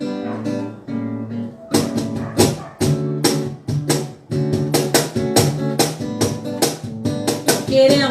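Acoustic guitar playing a worship song's instrumental passage: held chords ring at first, then steady rhythmic strumming starts about two seconds in, a few strokes a second.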